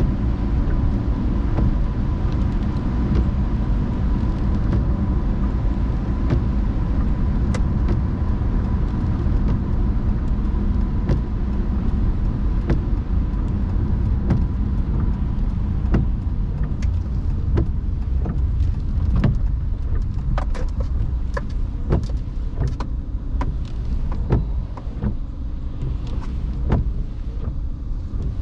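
Car driving on wet roads, a steady low rumble of road and engine noise. Scattered sharp ticks come through it, more often in the second half.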